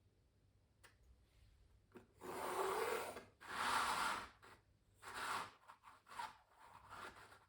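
Pencil drawing on canvas: two long scratchy strokes of about a second each, then three shorter ones.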